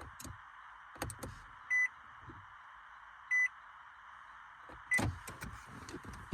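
Two short electronic beeps about a second and a half apart, then a brief third one, among a few sharp clicks over a steady hiss.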